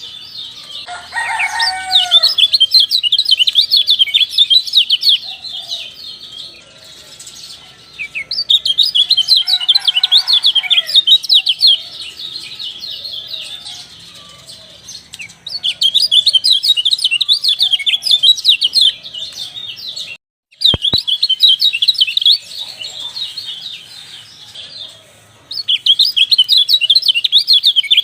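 Kecial bird singing in bouts of fast, high chirping a few seconds long, separated by short pauses. A couple of lower, swooping calls come in early on and again about ten seconds in.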